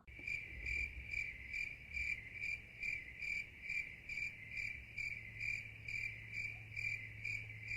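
Cricket chirping in a steady, even rhythm, about two and a half chirps a second, starting abruptly, over a low steady hum.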